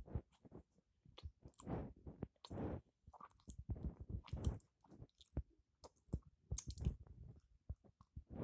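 A person biting into and chewing a peanut butter and jelly sandwich close to the microphone: a bite at the start, then a run of irregular chewing sounds.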